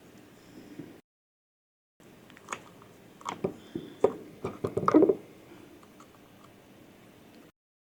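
Small parts of a drone's body being handled and snapped together by hand during reassembly: a run of light clicks and taps, densest around four to five seconds in, with two short gaps of dead silence.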